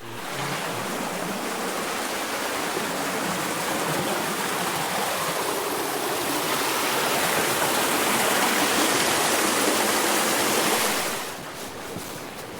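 Rushing water of a stream tumbling over rocks, a steady rush that grows a little louder and then drops off sharply near the end.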